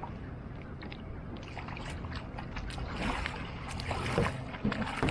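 Kayak paddle blades dipping and splashing in the water, the splashing growing louder and busier from about a second and a half in, with a couple of louder splashes or knocks near the end, over a steady low rumble.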